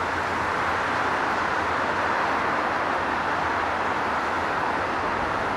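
Steady rumble and hiss of a Nankai 10000-series electric train running along the track, the level holding even throughout.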